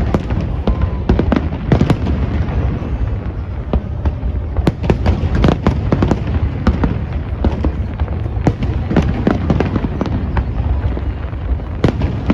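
Aerial fireworks exploding in quick, irregular succession, many sharp bangs and crackles over a constant low rumble of bursts.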